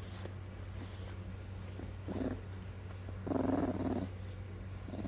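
A puppy growling in two short rough bursts, a brief one about two seconds in and a longer, louder one a little past the middle, in play-biting.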